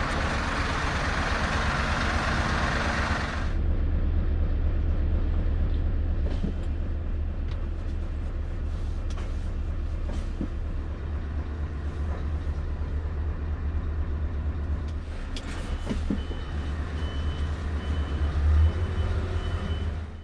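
Scania S650 truck's V8 diesel engine running with a steady low rumble. A loud hiss over it stops suddenly about three and a half seconds in, and a row of evenly spaced high beeps sounds over the last few seconds.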